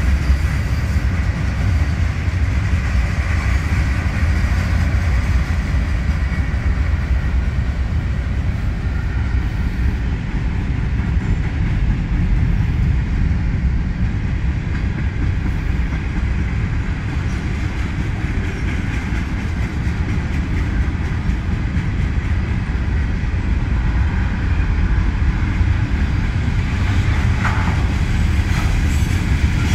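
Freight cars of a CSX mixed freight train rolling past steadily: a continuous low rumble of steel wheels on the rails.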